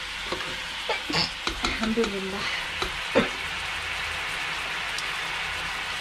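Minced meat and sauce sizzling in a non-stick wok, with a metal spoon scraping and clinking against the pan in the first half and one sharp knock about three seconds in.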